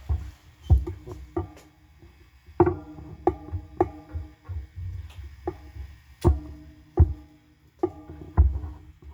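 Guitar amplifier putting out irregular sharp pops and crackles, each with a brief ringing buzz, over a low hum, as a loose guitar cable is handled. The owner takes the noise for incoming electromagnetic activity.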